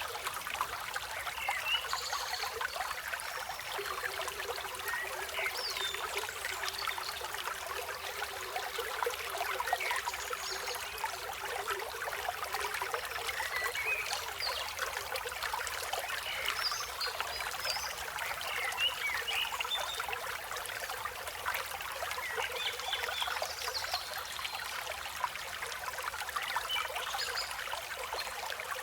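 River water flowing steadily, with birds chirping in many short, scattered calls over it.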